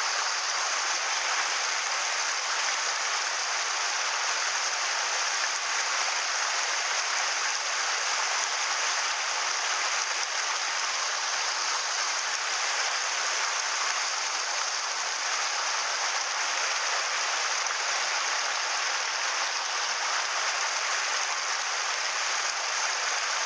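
Mountain stream flowing over rocks: a steady, even wash of running water.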